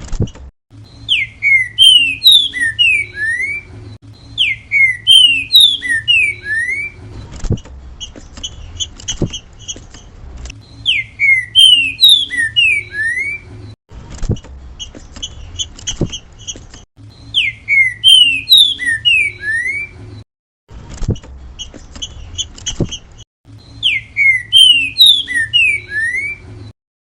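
Green-winged saltator (trinca-ferro) singing its 'grego mole boi' song: a loud phrase of descending slurred whistles, repeated five times about every six seconds. Between the phrases there are soft short chirps and a few sharp clicks over a low hum.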